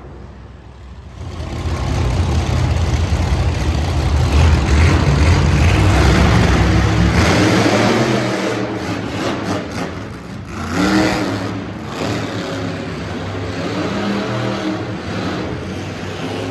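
Monster truck engine revving hard, building to a loud peak a few seconds in, then easing off with shorter bursts of throttle.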